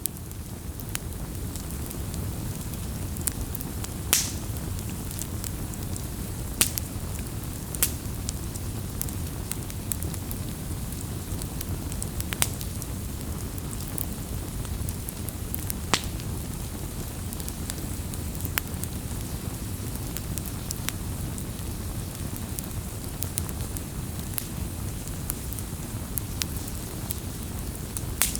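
Wood fire burning with a steady low rush of flame and scattered sharp crackles and pops, a few of them louder than the rest.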